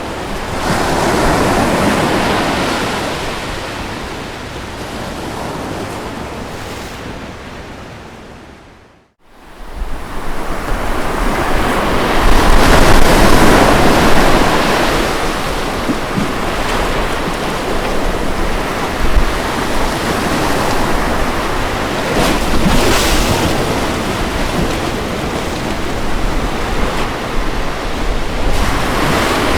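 Ocean waves washing onto a beach, a steady wash that swells and ebbs, with some wind on the microphone. About nine seconds in, the sound fades almost to silence and then swells back up.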